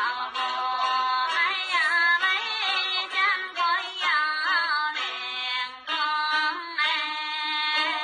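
Background music: a high voice singing a winding melody, its pitch bending and turning often.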